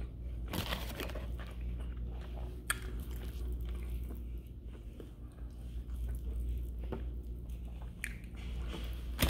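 A person chewing and biting fried chicken: wet mouth sounds with small crunches and clicks of the breading, over a steady low hum.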